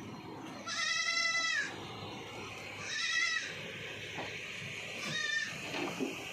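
Goats bleating: three separate calls, the first about a second in and the longest, a shorter one about three seconds in, and a brief one near the end.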